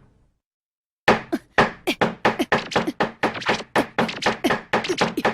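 Cartoon sound effect of rapid knocking and tapping, several strokes a second, like busy work going on behind a closed door. It starts about a second in, after a brief silence.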